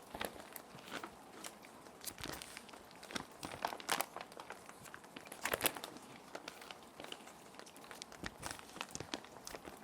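Clear plastic sheet protectors crinkling and rustling in irregular bursts as they are handled and sheets are slid in, loudest about four and five and a half seconds in, over a steady bed of gentle rain.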